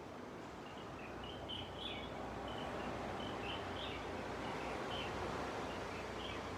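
Gentle ocean waves washing on a beach, a steady hiss of surf that swells slightly about two seconds in, with small birds chirping in short high notes throughout.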